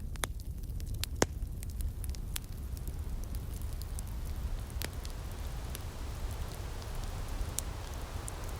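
Outdoor wood fire in a firepit crackling, with scattered sharp pops, one stronger about a second in, over a steady low rumble and a soft breeze hiss.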